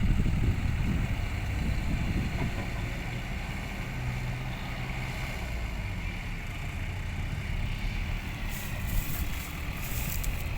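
Heavy diesel engine of a dump truck or excavator running steadily with a low rumble, a little louder in the first second. From about eight and a half seconds in, short crackling noises join it.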